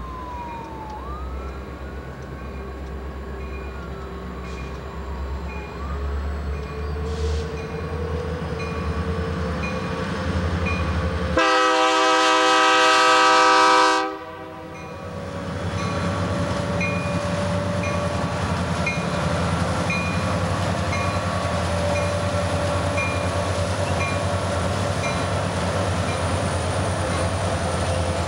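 Diesel freight locomotive approaching with its engine rumbling, giving one long, loud blast on its air horn about halfway through, then passing with a string of loaded coal hopper cars rolling by on steel wheels. A regular high ding repeats in the background.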